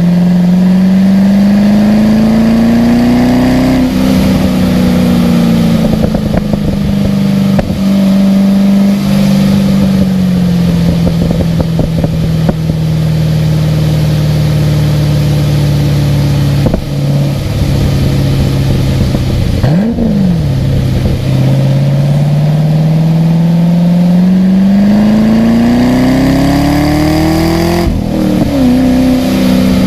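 Car engine under hard acceleration on track, its pitch climbing through the gears with several upshifts, and a quick rev spike and drop about two-thirds of the way through, then a long climb to another shift near the end.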